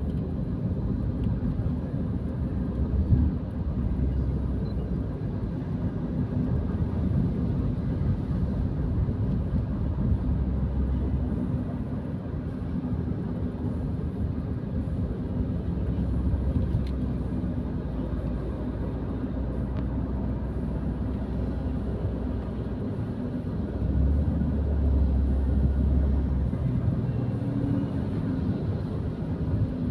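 Steady low rumble of a car driving, heard from inside the cabin: engine and tyre noise, swelling louder for a few seconds near the end.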